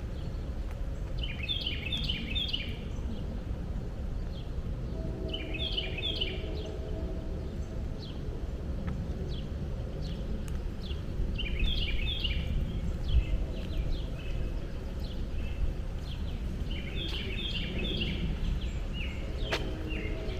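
A songbird singing the same short, quick phrase four times, about every five seconds, over a steady low rumble of background noise.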